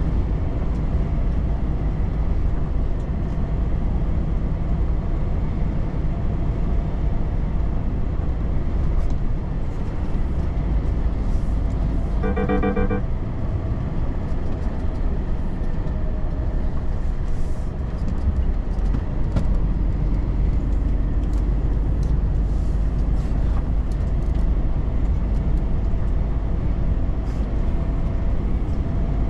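Volvo FH truck driving along a road: a steady rumble of engine and tyre noise. About halfway through comes a brief pulsed tone lasting under a second.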